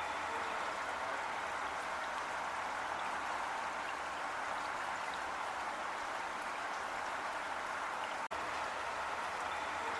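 Heavy rain falling steadily, an even dense hiss, broken by a split-second dropout about eight seconds in.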